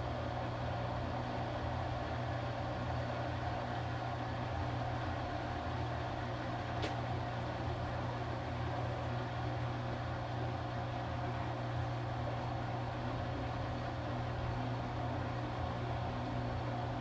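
Washing machine running, its motor giving a steady low hum with a faint click about seven seconds in.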